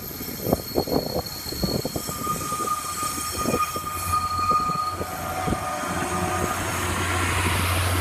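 Diesel passenger train rolling over the level crossing, its wheels knocking over the rail joints with a steady high wheel squeal. A low engine hum builds and grows louder in the second half.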